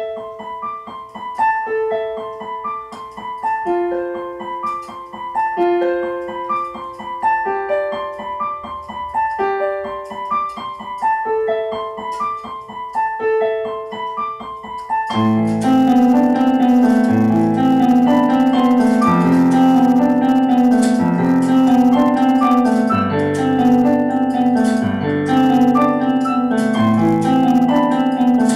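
Piano playing a slow melody in single notes, about one a second. About halfway through, a bass accompaniment comes in and the playing grows fuller and louder.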